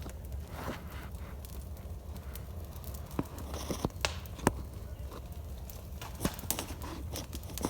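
Wood fire burning in a home fireplace, crackling with irregular sharp pops over a low steady rumble.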